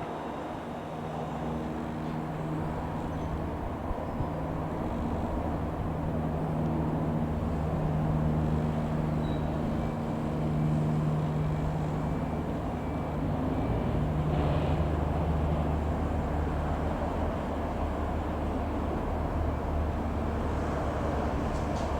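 Piper PA-28-180 Cherokee's single four-cylinder piston engine droning as the light aircraft flies over, growing louder over the first several seconds and then holding steady.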